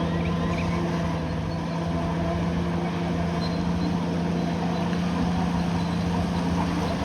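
Bulldozer's diesel engine running at a steady speed.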